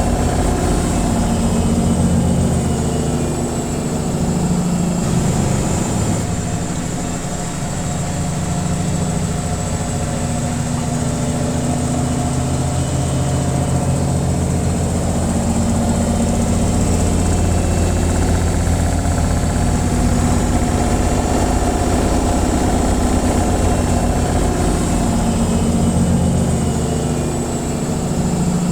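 Washing machine in its spin cycle: a steady motor hum and low drum rumble whose pitch drifts slightly up and down, with a faint high whine above it.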